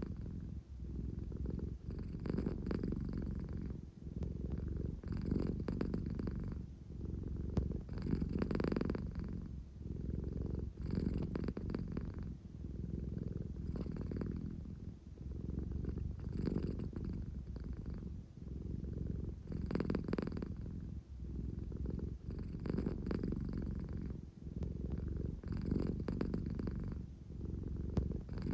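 An American Shorthair cat purring steadily, a deep rumble that swells and eases with each breath, about every three seconds.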